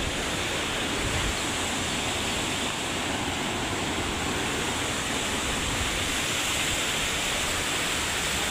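Steady rush of a large waterfall, Thomson's Falls, pouring down into its gorge: an even, unbroken noise without pauses.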